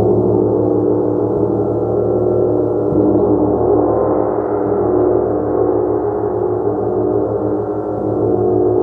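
Gong played continuously as a sustained, shimmering wash of many overlapping tones with a slow pulsing beat in the low range, kept going by soft mallet strokes about every second or two.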